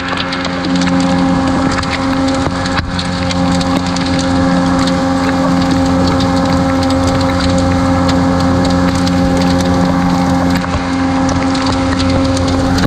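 Hailstones near golf-ball size pelting down hard: a dense, continuous rattle of stones striking, with a steady low hum beneath.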